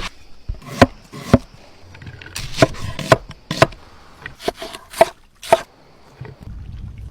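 Knife chopping on a cutting board: about a dozen sharp knocks at an uneven pace.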